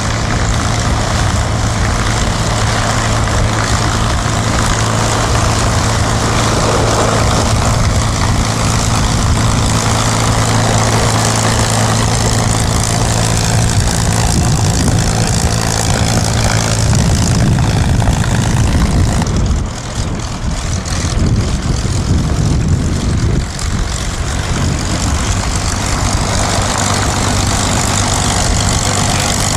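Aircraft engines running steadily, with a surge in the deep engine sound about two-thirds of the way through and a brief drop soon after.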